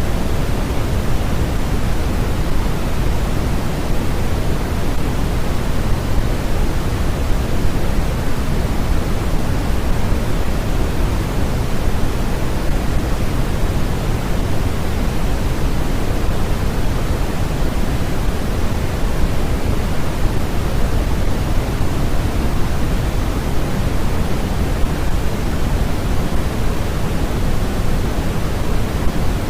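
Steady, unchanging hiss of a white-noise track: an even rush with its weight in the low range, thinning toward the top.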